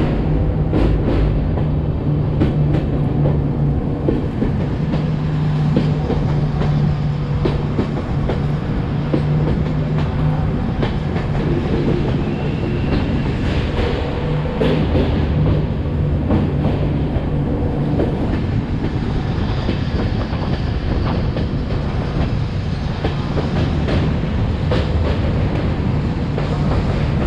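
Passenger express train running: a steady rumble of the coaches with a low continuous hum, and the wheels clicking over rail joints at irregular intervals.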